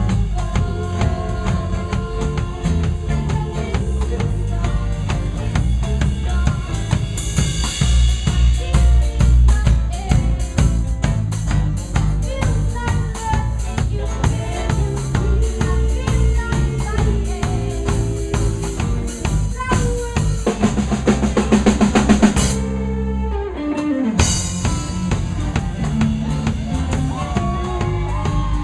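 Live band playing an instrumental passage with the drum kit to the fore, over bass and other instruments. About three quarters of the way through, a fast drum fill builds up, the band breaks off briefly with a low note sliding down, then comes back in.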